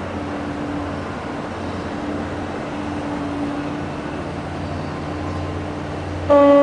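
Departing ship's engine running with a steady low hum and a faint held tone, then near the end the ship's horn starts a loud, steady blast.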